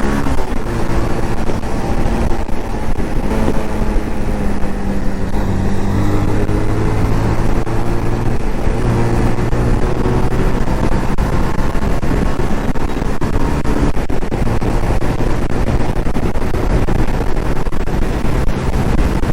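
Hero Xpulse motorcycle's single-cylinder engine running under way, its pitch stepping up and down with throttle and gear changes, over a steady rush of wind noise.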